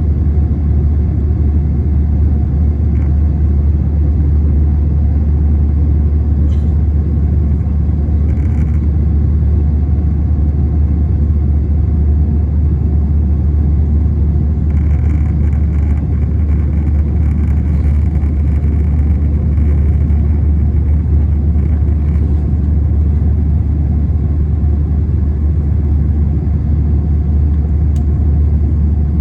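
Steady low drone inside an Airbus A321 cabin: engine and airflow noise holding constant, with a few faint, brief higher-pitched cabin sounds around the middle.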